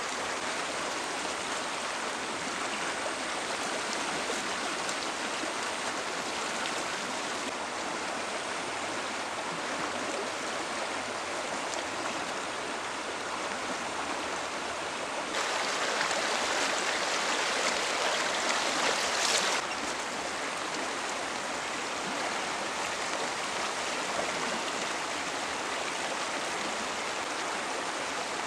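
Stream water rushing and flowing steadily. Past the middle it turns louder for about four seconds, starting and stopping abruptly, then settles back to the same steady flow.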